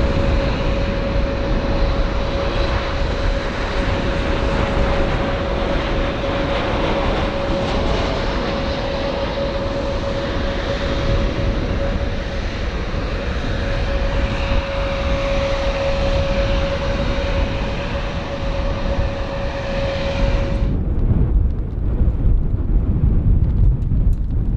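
Airliner engines running loud and steady, a broad rush with a steady whine in it. About four seconds before the end the engine sound cuts off sharply, leaving a low wind-like rumble.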